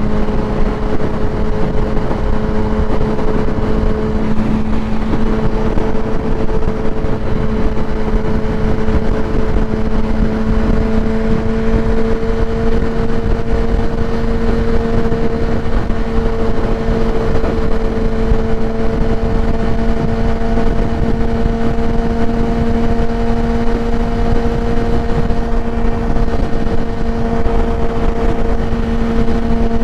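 2016 Kawasaki ZX-10R's inline-four engine through a Graves race exhaust, running at a steady cruise, its pitch edging up slightly a few seconds in, under continuous wind rush on the microphone.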